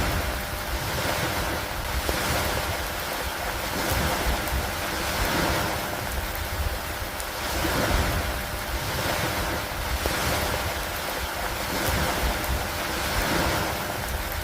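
Storm ambience of rain and rushing water noise, a dense steady hiss that swells and eases about every two seconds.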